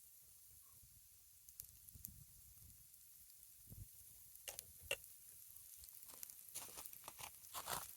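Faint sizzling of food frying in a cast iron skillet over a campfire, with scattered crackles and pops that come thicker in the second half.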